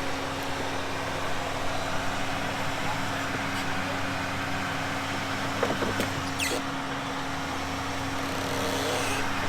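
A four-wheel drive's engine idling steadily, with a few light knocks about six seconds in.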